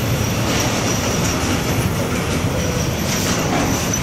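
Intermodal freight train's wagons rolling past with a steady rumble, a thin high wheel squeal and faint clatter.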